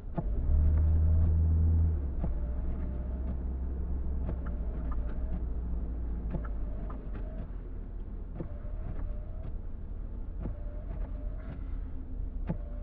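Car driving through snow, heard from inside: a steady low road and engine rumble, with a louder deep hum for about a second and a half near the start. Over it, a soft knock and sweep repeats about every two seconds, typical of windshield wipers clearing snow.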